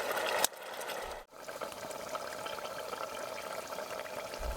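Hamburger steaks simmering in tomato sauce in a lidded iron frying pan: a steady bubbling sizzle, broken by a brief drop-out about a second in.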